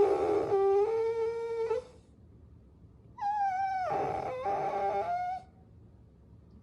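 Puppy whining: two long, drawn-out whines, the second starting about three seconds in, each jumping to a different pitch partway through.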